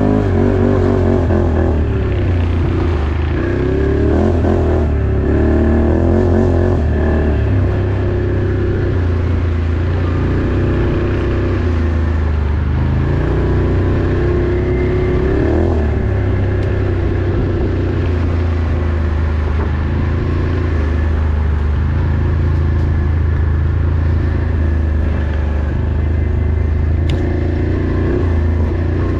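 Off-road vehicle engine running under way, its pitch rising and falling again and again as the throttle is worked.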